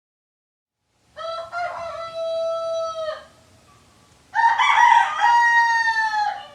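A rooster crowing twice, each crow a long drawn-out call of about two seconds; the first begins about a second in and the second, louder one follows after a short pause.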